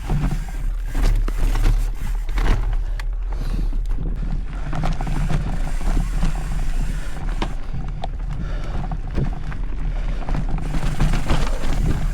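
Mountain bike ridden along a dirt trail: steady low wind rumble on the microphone with frequent knocks and rattles from the bike over the uneven ground.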